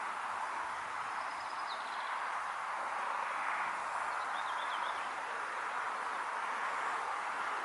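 Steady outdoor ambience, an even hiss in the middle range, with a few faint bird chirps, one short series about a second in and another about four seconds in.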